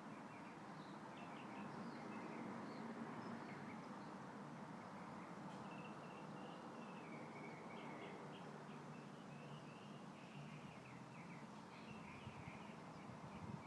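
Faint steady rustle of a breeze through tree leaves, with small birds chirping in quick short notes again and again.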